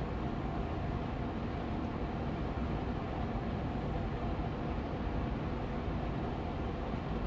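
Austin Air Allergy Machine air purifier fan running steadily on medium speed: an even hum of moving air, heaviest in the low range, with faint steady tones in the middle.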